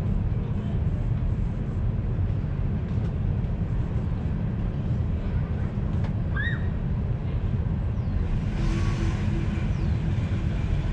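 A vehicle engine idling with a steady low rumble. A short, high rising chirp comes about six seconds in, and a brief rustling noise near the end.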